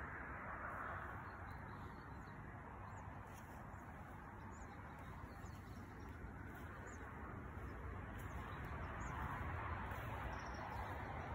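A few short, high bird chirps scattered over steady outdoor background noise.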